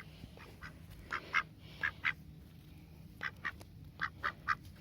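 Rouen drakes giving short, quiet quacking calls, about a dozen, mostly in quick runs of two or three.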